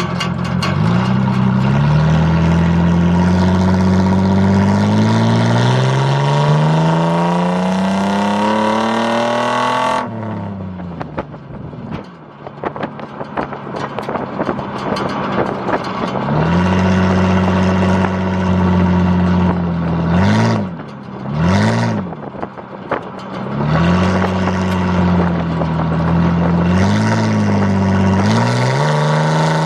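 Ford Ranger engine through a straight-piped exhaust with a stack, heard inside the closed cab, revving in park. The revs climb steadily for about ten seconds and then drop off suddenly. Later they are held high, blipped twice, held again, and let fall near the end.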